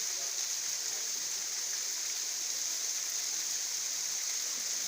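Decorative water fountain running, its water splashing steadily.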